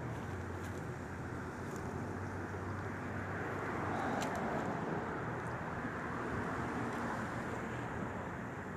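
Steady wind noise, swelling slightly about four seconds in.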